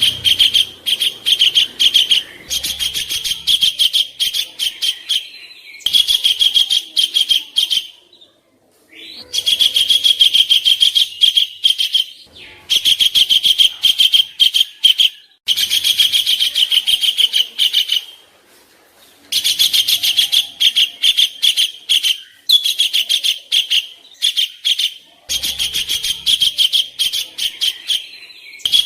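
Songbird chattering in a series of rapid, harsh rattling phrases, each a few seconds long with short breaks between. This is the rough 'kasaran' fill typical of the master recordings used to train Indonesian competition songbirds.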